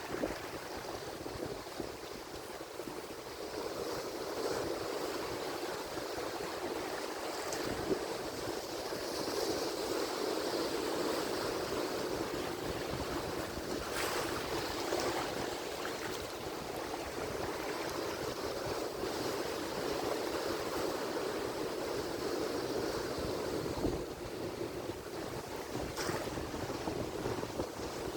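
Ocean surf breaking and washing continuously, a steady rush that swells a little a few seconds in, with a few brief ticks scattered through it.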